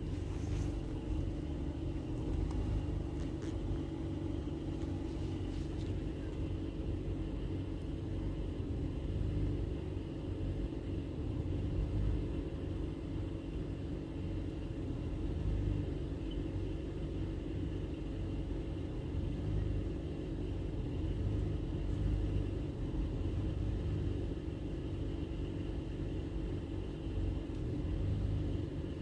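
2008 Mazda 3's 2.0-litre four-cylinder engine idling roughly: a steady low rumble whose level wavers slightly. The engine is running with fault code P2177, system too lean off idle.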